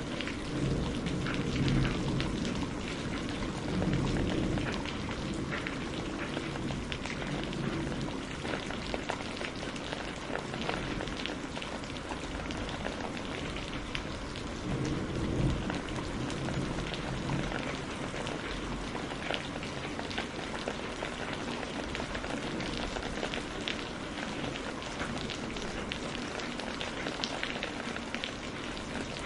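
Steady rain falling on a surface, with soft low rumbles swelling a couple of times, early and about halfway through.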